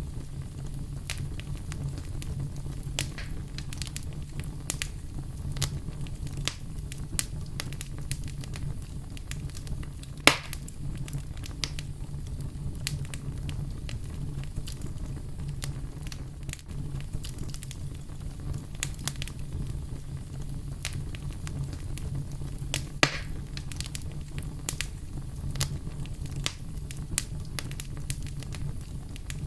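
Wood fire crackling, with frequent small snaps over a steady low rumble. Two sharper, louder pops come about a third of the way in and again near the end.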